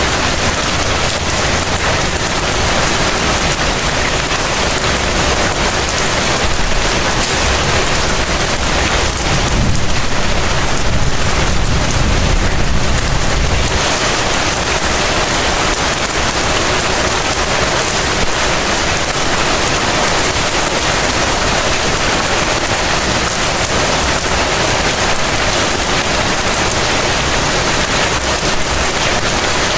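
Heavy rain falling steadily, a dense even hiss of drops. A low rumble swells about nine seconds in and fades out by about fourteen seconds.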